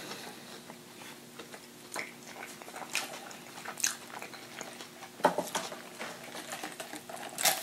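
Quiet chewing and wet mouth clicks close to the microphone, a few soft smacks about a second apart, over a faint steady hum.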